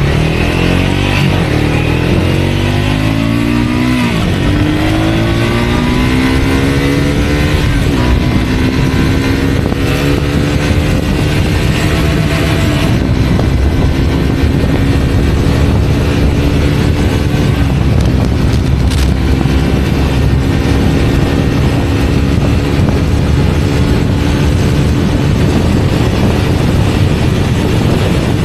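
Triumph Scrambler 400X's single-cylinder engine pulling hard under acceleration. The pitch rises, drops at two quick upshifts about four and eight seconds in, then climbs slowly and holds steady at high speed, under a constant rush of wind.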